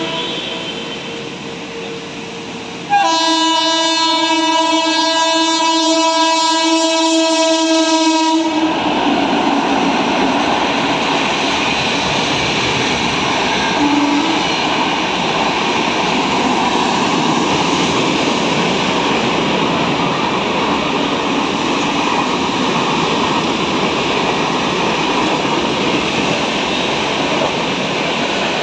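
Electric locomotive's horn sounding one long steady blast of about five seconds, then the continuous rush and rattle of a superfast express train running through at speed. A fainter earlier horn blast fades out just before the long one starts.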